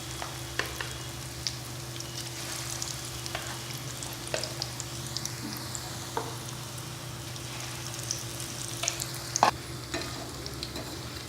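Batter-coated potato pakoras deep-frying in hot oil: a steady sizzle with scattered crackles and clicks, the sharpest about nine and a half seconds in. A steady low hum runs underneath.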